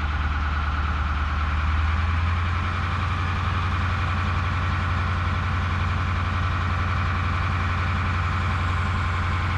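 Heavy diesel engine idling steadily with a deep, constant hum.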